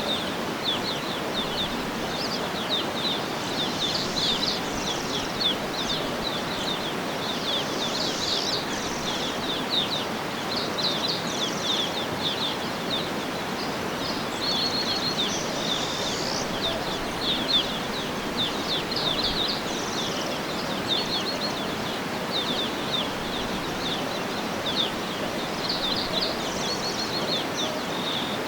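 Birds chirping and twittering in quick, repeated short calls throughout, over a steady background hiss.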